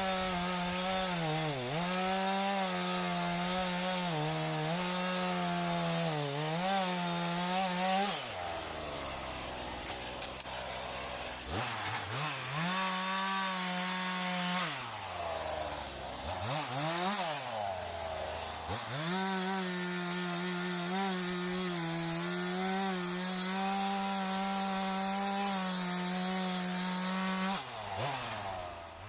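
Two-stroke chainsaw running at full throttle and cutting dead white elm, its pitch sagging briefly under load. Twice it drops back to idle and revs up again, and near the end it winds down.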